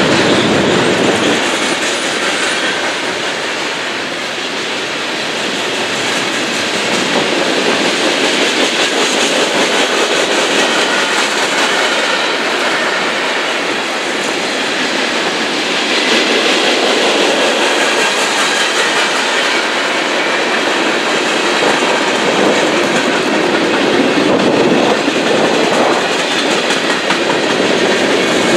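A long freight train's cars (gondolas, tank cars and covered hoppers) rolling steadily past a few metres away: a continuous rush and rattle of steel wheels on the rails that swells and eases a little as the cars go by.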